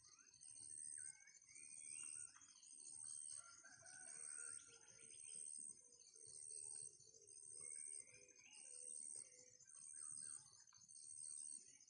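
Faint free-range village chickens calling, with a rooster crowing a few seconds in. Over them runs a high, pulsing buzz that swells and drops about once a second.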